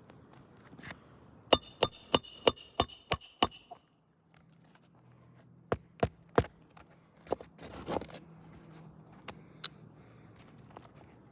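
Hammer driving roofing nails while a shingle is installed: seven quick ringing strikes, about three a second. After a short gap come a few scattered lighter taps and a brief scrape.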